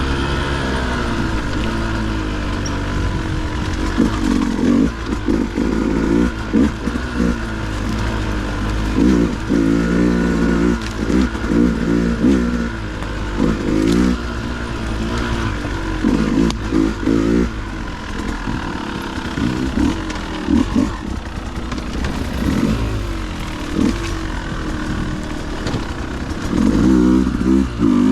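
Dirt bike engine revving in repeated short throttle bursts, dropping back between them, as it is ridden over rough trail.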